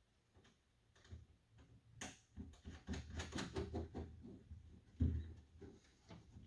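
Quick small clicks and rattles of nuts being threaded by hand onto the door handle's studs inside a car door, busiest in the middle, with a single louder knock about five seconds in.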